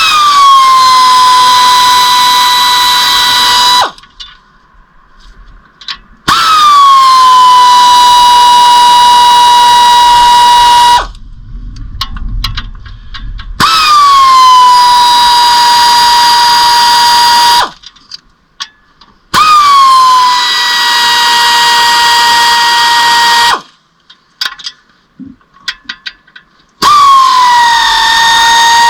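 A cordless power tool runs in five bursts of about four seconds each, with short pauses between them. At the start of each burst the pitch drops, then it holds a steady whine, as it loosens the clutch bolts.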